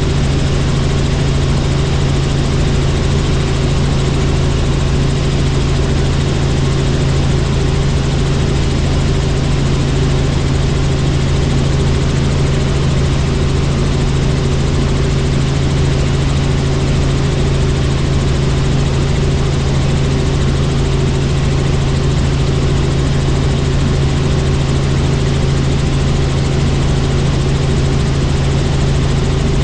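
Helicopter in flight: the steady drone of its rotor and turbine engine, a loud, unchanging low hum over a wide rushing noise.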